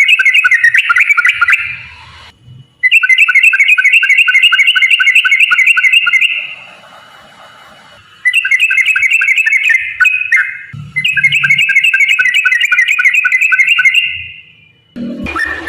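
Yellow-vented bulbul (trucukan) singing its long rolling song: rapid runs of bubbling, repeated chirping notes, four long phrases with short pauses between them.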